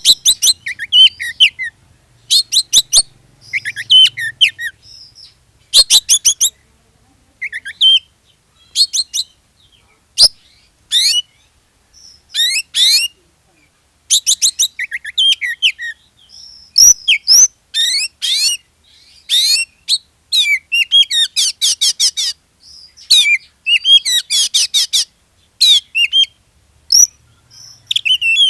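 Oriental magpie-robin (kacer) singing in its full, lively 'gacor' form: short bursts of rapid, high whistled and sweeping notes broken by brief pauses. It is a lure song, meant to set other magpie-robins singing.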